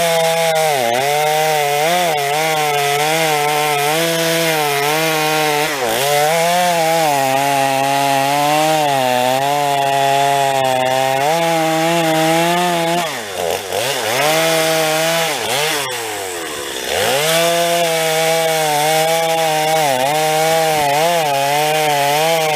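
Stihl MS 250 two-stroke chainsaw cutting through firewood logs at high revs, its pitch wavering as the chain takes the load. About two-thirds of the way through it drops to idle between cuts, then revs back up and cuts again.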